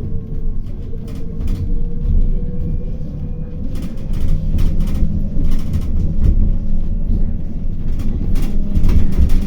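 City bus on the move, heard from inside the cabin: a continuous low rumble of engine and road with a steady whine from the drivetrain, and scattered short rattles and knocks.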